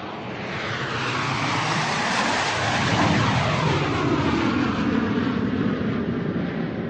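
Airplane flying overhead: a rushing engine noise swells up, is loudest about three seconds in, then slowly begins to fade as it passes.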